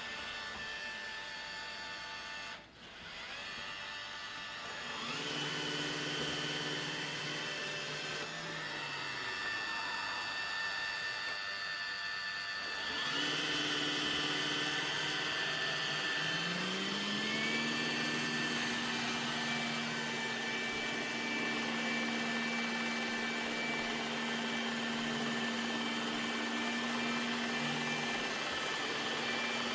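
iRobot Roomba Combo j7+ robot vacuum running, a steady motor hum and whine whose pitch rises as motors spin up, about 5 seconds in, again about 13 seconds in and about 16 seconds in, then holding steady.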